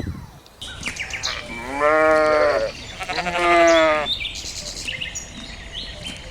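Sheep bleating twice, each call about a second long, the second with a wavering, shaky quality. Faint bird chirps sound around the calls.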